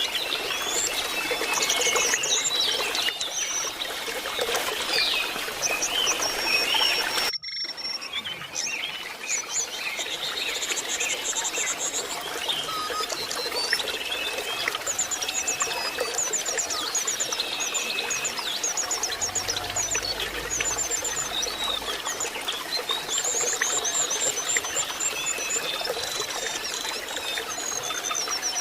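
Lesser shortwing song: high, thin chirps, whistles and rapid trills, over steady trickling water. The sound cuts out briefly about 7 seconds in where the recording is spliced.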